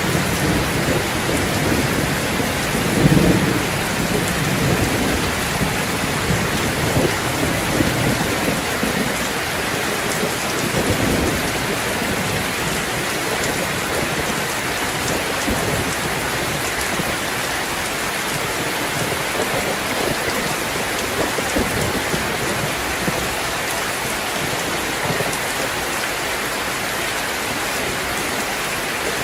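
Steady rain falling, with low rolls of thunder in the first few seconds, the loudest about three seconds in.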